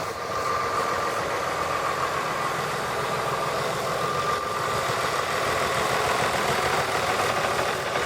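Homemade bead-wire rock saw running steadily as it cuts stone, a machine drone with a faint steady whine.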